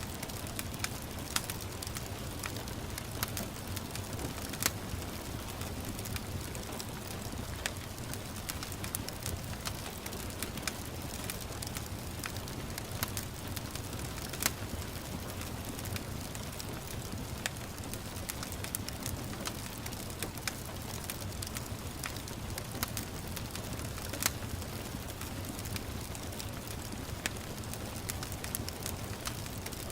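Wood fire crackling, with irregular sharp pops over a low steady rumble, mixed with the even patter of gentle rain.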